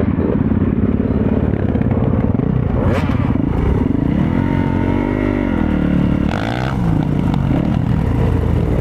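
Motorcycle engine running under way, steady, with its pitch rising and then falling once around the middle.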